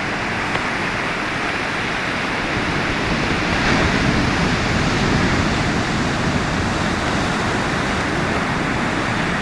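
Steady rushing noise with no distinct calls, swelling slightly a few seconds in.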